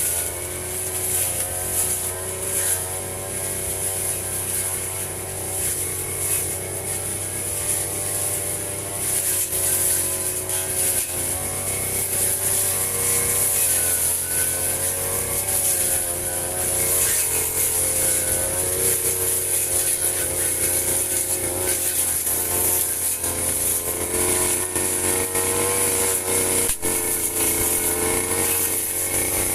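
Firman FGB 528 brush cutter engine running while cutting grass, its pitch rising and falling as the engine speed varies under load, with a steady high hiss from the spinning cutter. A single sharp tick comes near the end.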